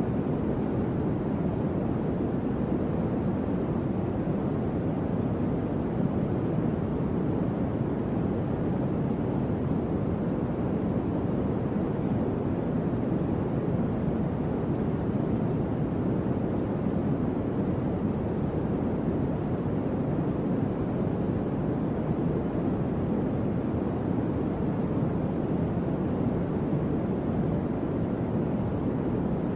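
Electric fan running steadily: an even, low whooshing hum of moving air with no change in level.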